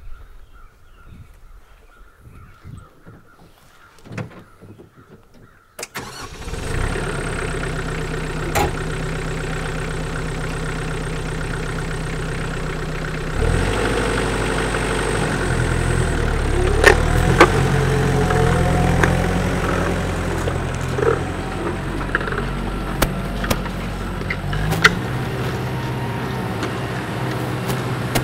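McCormick X10.55M tractor's diesel engine starting about six seconds in, then running steadily. About halfway through it gets louder and deeper, with a few sharp clanks over it.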